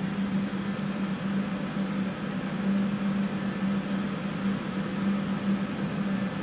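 Several electric fans running steadily, with a continuous low hum under an even rushing noise.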